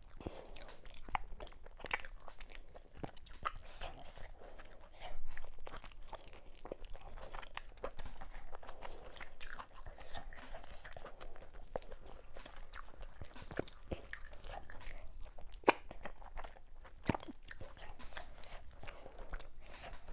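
Close-miked mouth sounds of eating fufu with okra soup and assorted cow meat: irregular wet chewing, biting and crunching. There is a louder stretch about five seconds in and a sharp crunch later on.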